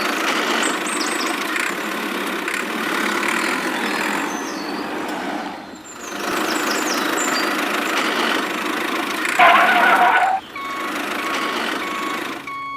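A vehicle engine running with a rough, rattling sound that dips briefly about six seconds in. Near the end a horn sounds for about a second, followed by a string of short, evenly spaced beeps.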